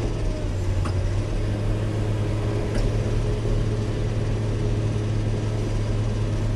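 Caterpillar 120K motor grader's diesel engine running steadily under work, with a couple of faint clicks.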